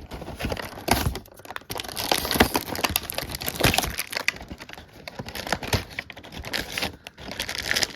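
Crinkling, crackling toy packaging as the cardboard doors of a Disney Doorables box are opened and the packs behind them handled, with irregular clicks and snaps.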